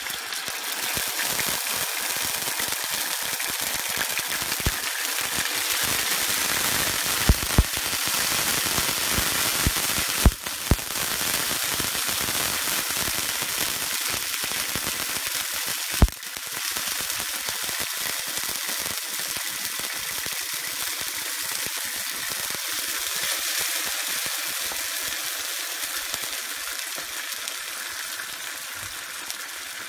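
Beans and their liquid sizzling in a hot nonstick frying pan: a steady crackling hiss, with a few sharp pops between about 7 and 16 seconds in. The hiss eases slightly toward the end.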